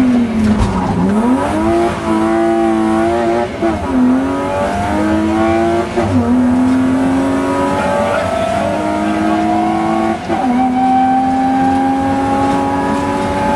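Rally car engine heard from inside the cabin, accelerating hard through the gears. Its pitch climbs in each gear and drops sharply at four upshifts, and the last gear is held longest, rising slowly.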